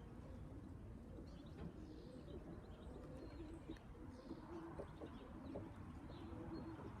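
Domestic pigeons cooing softly at the loft: low, wavering coos repeated throughout.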